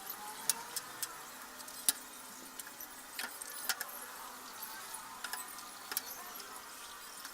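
Irregular sharp metallic clicks and taps, about a dozen of them spaced unevenly, as of tools and metal parts being handled while working on a washing machine, over a faint steady background.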